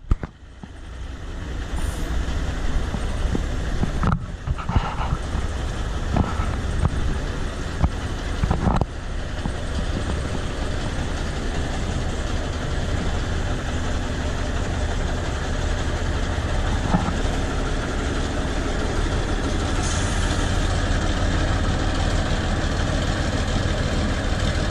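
A truck engine running steadily, with a few sharp knocks in the first several seconds.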